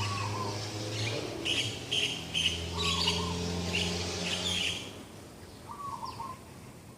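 Birds calling in the morning: a quick series of short, high chirps repeated about six times, with a short lower call recurring three times, over a low steady hum that fades out about five seconds in.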